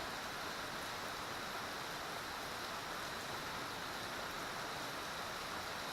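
Heavy rain falling steadily: a constant, even hiss.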